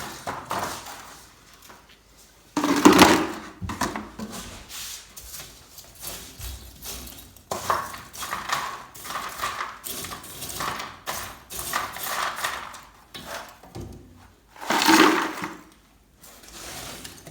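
Metal tools scraping and clanking inside a wood-burning fireplace as its ash and burnt wood are cleared out, with two louder clatters, about three seconds in and near the end.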